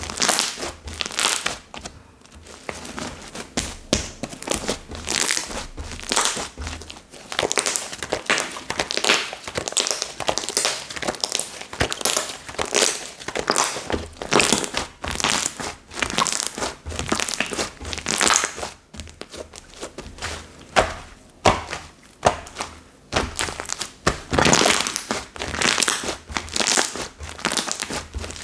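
Slime being squished and stretched by hand, giving a continuous run of irregular sticky crackles and clicks.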